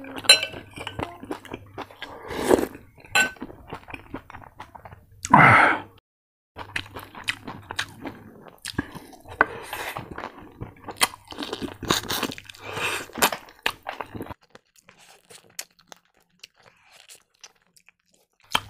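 Close-up eating sounds: crunching and chewing of crispy fried pork, with sharp mouth clicks and the odd clink on the plate. One louder burst comes about five seconds in, and the eating grows sparse and faint near the end.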